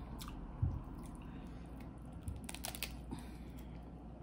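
Close-miked eating sounds: soft chewing with small wet mouth clicks, from someone eating tender lobster tail meat. There is a dull thump about half a second in.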